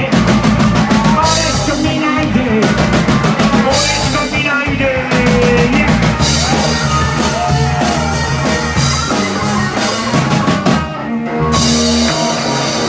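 Live rock band playing, with the drum kit and its cymbals driving a steady beat under the melody.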